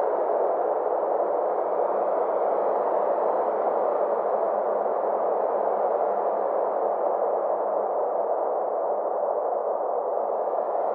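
Synthesized 'space' ambient drone: a steady band of filtered hiss centred in the middle range, its top edge slowly sinking and then rising again near the end.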